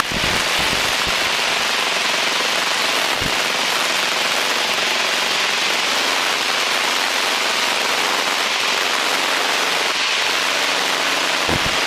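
Steady cabin noise of a light single-engine training airplane in climb: the engine and propeller drone under a loud, even rush of air.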